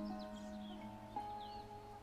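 Tanglewood Roadster II acoustic guitar, fingerpicked notes ringing out, with a fresh note plucked about a second in. Faint bird chirps sound high in the background.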